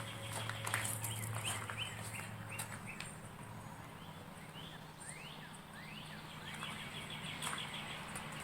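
Birds chirping: a run of short, quick chirps that sweep up and down in pitch. A few sharp clicks and a low steady hum come in the first three seconds, and the hum fades out about three seconds in.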